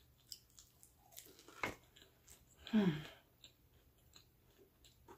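Close-up chewing and biting of pepperoni pizza, with small wet mouth clicks scattered throughout. About three seconds in, a short hum of the eater's voice falls in pitch.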